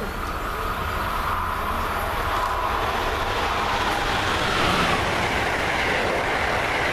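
Amtrak Acela Express high-speed electric trainset approaching and passing at speed, its rushing noise growing steadily louder as it nears, with a high whine running through it.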